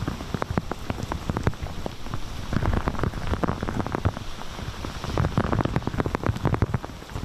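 Heavy typhoon rain with gusting wind, full of an uneven crackle of drops and gusts striking the microphone, growing heavier about two and a half seconds in.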